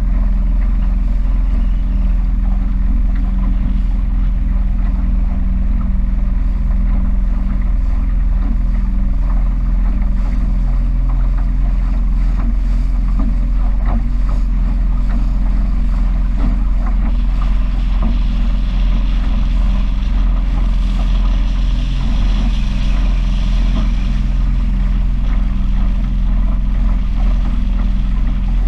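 Engine of a small powerboat running at a steady speed, a constant low hum. A higher hiss joins for several seconds about two-thirds of the way in.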